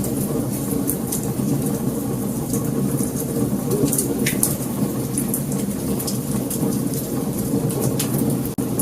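Wood fire burning: a steady low roar with frequent, irregular sharp crackles and pops. The sound drops out for an instant near the end.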